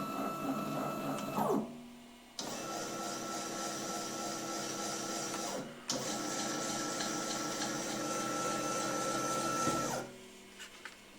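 Small CNC lathe's drive motors whining steadily through programmed moves: the run stops about a second and a half in, starts again a moment later, breaks briefly near the middle and stops shortly before the end.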